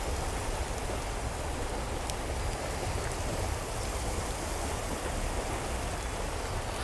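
Steady rushing of running water, an even unbroken wash with a few faint ticks.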